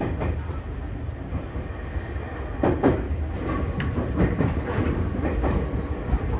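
Tokyu 3020 series electric train running, a steady low rumble with sharp clacks of the wheels over rail joints, loudest in a cluster about three seconds in.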